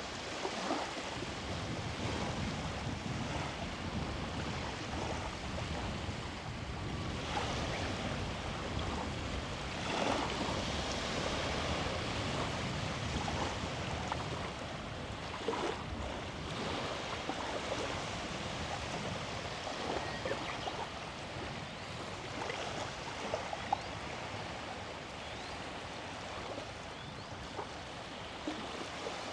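Small sea waves breaking and washing up the shore: a steady rush that swells every few seconds.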